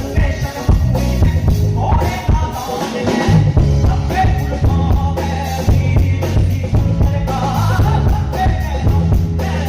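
Live band playing: a vocalist sings a wavering melodic line over drum kit, keyboard and hand percussion, with the voice coming in twice.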